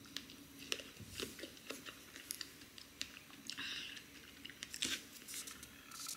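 Close-miked chewing of soft fruit and yogurt: small wet mouth clicks and smacks, scattered and irregular, over a faint steady hum.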